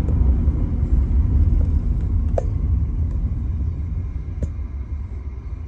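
Steady low rumble of a car driving, heard from inside the cabin, with two faint clicks partway through.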